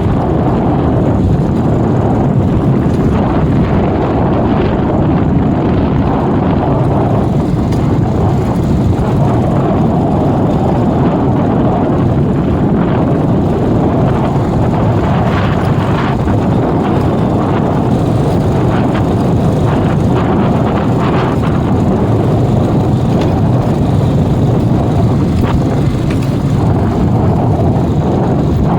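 JCB 3DX backhoe loader's diesel engine running steadily, with a few faint knocks.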